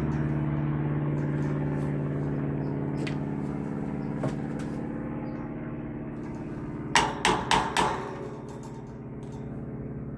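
Electric fan motor humming steadily and slowly fading. Four quick, sharp metal taps land about seven seconds in: a tool tapping the motor to realign its self-aligning bearings.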